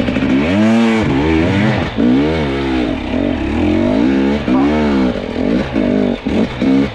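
Two-stroke enduro dirt bike engine revving up and down repeatedly, the pitch rising and falling several times in quick succession under throttle blips.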